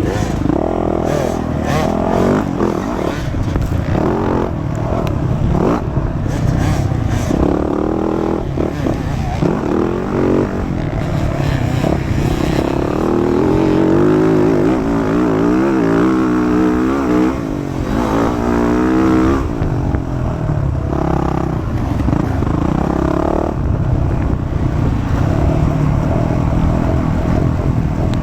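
Motocross dirt bike engine revving hard and easing off again and again, its pitch climbing and dropping through the gears as it races around the track, with some knocks and clatter in the first several seconds.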